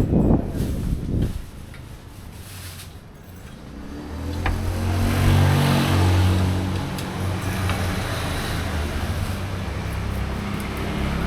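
A motor vehicle's engine comes close about four seconds in and then keeps running steadily, a low even hum.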